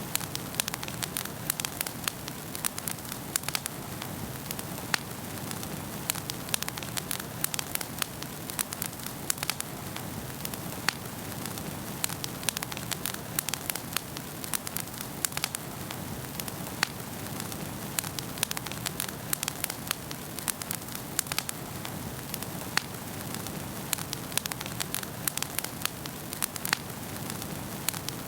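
Wood fire burning in a fireplace, crackling: frequent, irregular sharp pops and snaps over a steady low rush of the flames.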